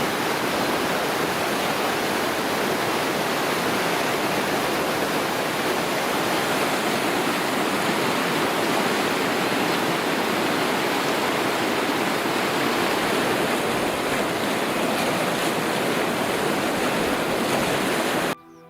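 Rushing water, a steady, even rush with no change in strength, that cuts off suddenly near the end.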